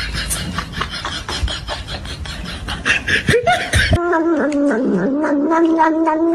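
A quick run of clicks and puffing sounds, then a cat's long wavering yowl that starts about four seconds in and is held steadily in pitch to the end.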